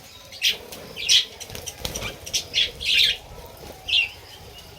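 Budgerigars giving a quick run of short, sharp chirps, about ten in a few seconds, with wings fluttering.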